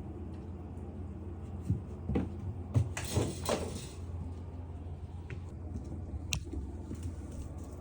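A few light knocks and a short burst of rustling about two to three seconds in, then a single sharp click, over a steady low hum.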